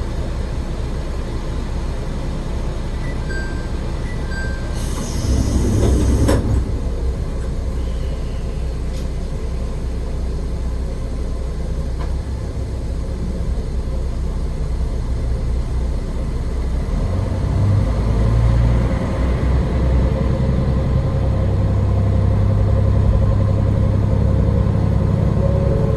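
AN-8800 diesel railcar running quietly, with a short sharp air hiss about five seconds in. From about seventeen seconds in, the diesel engine notches up and runs louder and steadier as the railcar pulls away.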